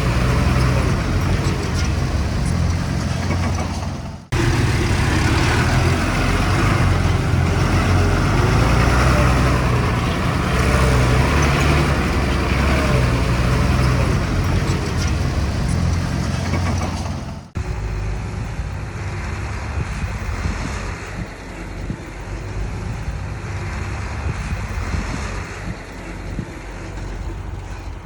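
Heavy diesel machinery engine running steadily under work, cut off abruptly twice, about four seconds in and again past halfway, after which it runs somewhat quieter.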